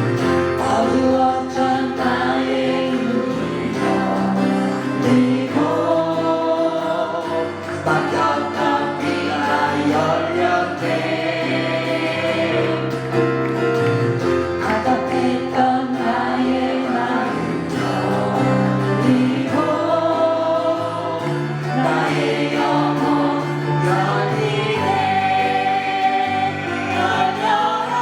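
A choir singing a Korean Christian gospel praise song, with sustained low accompanying notes under the voices.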